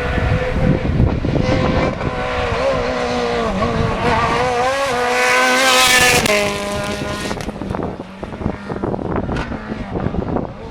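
Rally car engine at high revs, the note wavering as the driver works the throttle, growing loudest about six seconds in as it passes close. It then drops in pitch and fades away, with a series of sharp cracks near the end.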